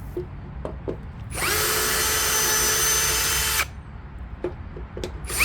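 Power drill spinning up and running steadily for about two seconds, then winding down; a few small clicks follow, and the drill starts again near the end.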